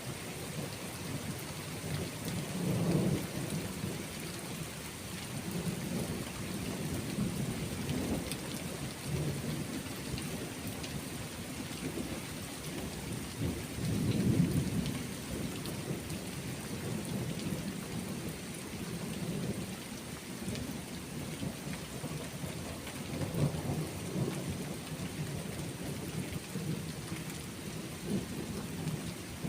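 Steady rain with low rolling thunder that swells and fades several times; the loudest rumble comes about halfway through.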